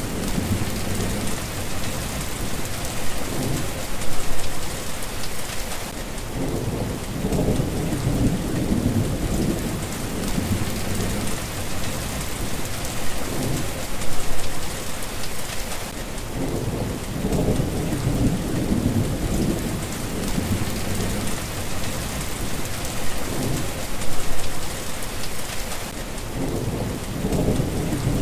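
Steady rain falling, with thunder rumbling low underneath in repeated rolls; three of the rolls swell louder.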